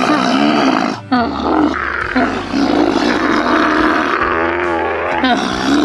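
Loud animal calls, several in a row: drawn-out pitched cries, some gliding in pitch, with short breaks about a second in and again near the end.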